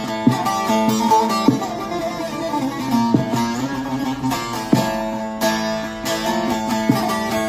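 Long-neck bağlama saz with a spruce top, played with a plectrum: a plucked folk melody over steadily ringing strings, with sharp picked strokes every second or so.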